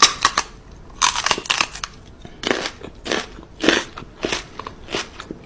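An animal crunching and chewing something hard, in irregular crisp crunches about every half second.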